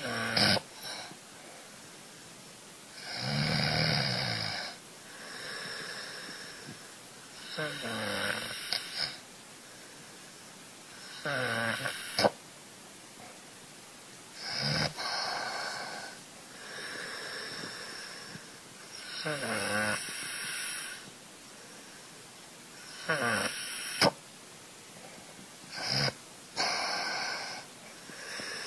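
A sleeping cat snoring: a rasping snore on each breath, repeating about every three to four seconds, several of them with a whistling tone that slides down in pitch.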